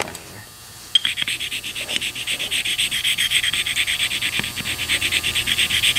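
Corvair rocker arm tip rubbed back and forth on a sharpening stone wet with silicone spray, a rhythmic scraping that starts about a second in. The rocker's valve end is being ground flat to take out a step worn by a valve that was hitting it out of adjustment.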